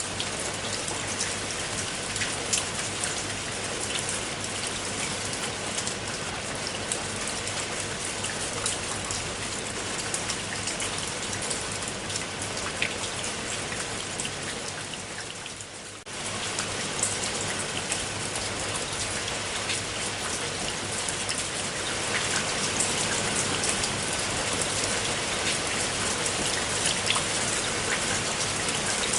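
Steady rainfall, with many individual drops ticking on a surface over an even hiss. About halfway through it fades briefly, then comes back suddenly, and it is a little louder for the last few seconds.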